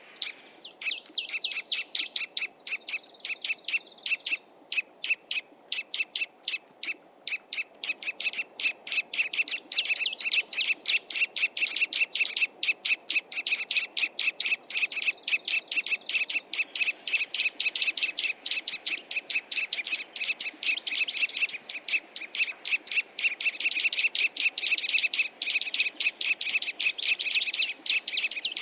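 Small garden songbirds chirping and singing without pause: fast runs of repeated notes, several a second, with higher chirps over them, busiest in the second half.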